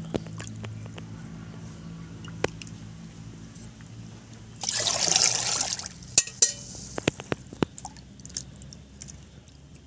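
Liquid poured for about a second and a half, then several sharp clinks and taps of a utensil against the vessel as the rice-water and buttermilk drink is mixed.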